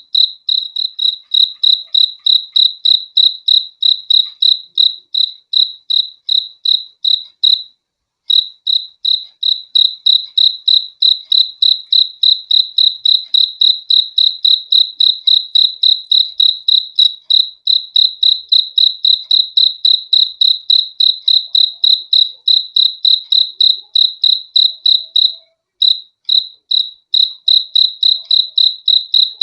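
A cricket chirping close up in a steady, even rhythm of about three high chirps a second. The chirping breaks off briefly twice, about 8 seconds in and again about 25 seconds in.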